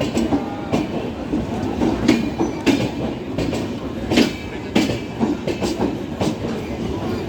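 Passenger train coaches rolling along the track, the steel wheels clacking over rail joints about twice a second over a steady rumble.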